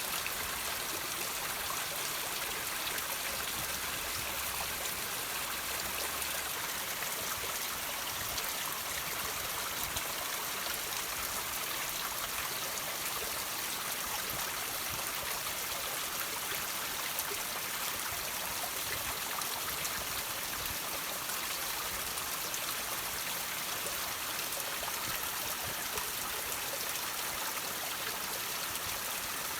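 Water trickling and dripping from rocks, an even, steady hiss of running water.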